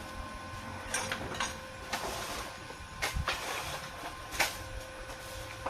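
Several short, harsh crackling bursts over a steady hum, the sound of brief electric arc welds being struck on steel.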